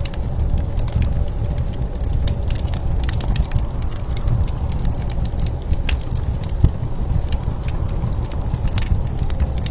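Wood fire crackling with frequent irregular pops and snaps, over a steady low rumble of blizzard wind.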